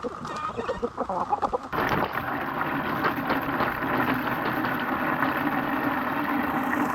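Chickens clucking for about the first two seconds, then an abrupt change to a steady rushing noise with a low hum underneath.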